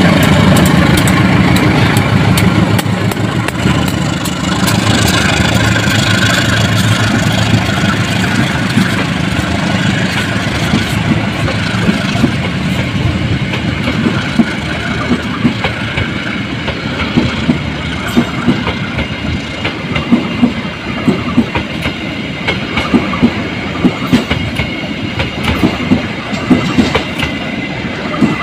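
KAI CC 201 diesel-electric locomotive (GE U18C) passing with its engine running, loudest in the first few seconds. Passenger coaches then roll past with a steady rumble and wheels clacking over rail joints and points, the clacks growing sharper and more frequent toward the end.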